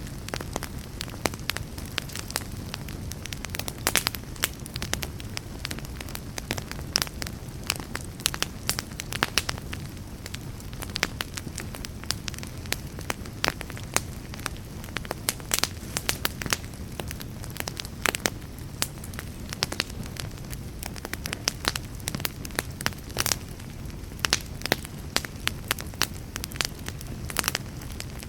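Wood fire burning steadily, with a low rumble under frequent sharp, irregular crackles and pops.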